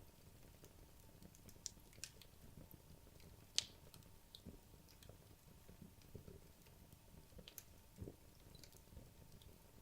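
Wood logs burning in a fireplace: faint crackling with scattered sharp pops, the loudest a little over a third of the way in.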